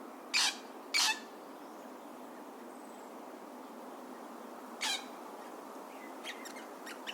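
Crimson rosella giving short squawks: two loud ones close together about half a second apart near the start, a weaker one near five seconds, and a few faint quick calls near the end.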